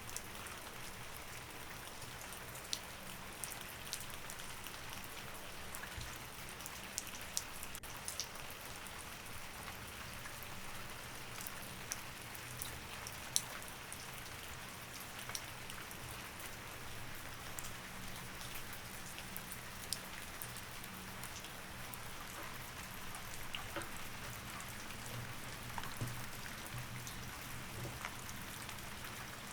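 Steady rain falling, with scattered sharper drop ticks and a faint low hum beneath.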